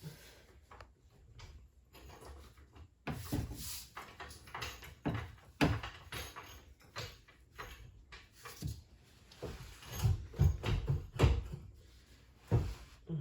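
Irregular clunks, knocks and rattles of hand tools and metal parts being handled during car work, with a quick cluster of heavier knocks near the end.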